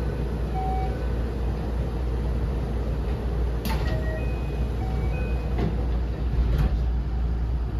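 Interior running noise of a JR 207 series commuter train's unpowered trailer car: a steady low rumble with a few sharp clanks about three and a half, five and a half and six and a half seconds in.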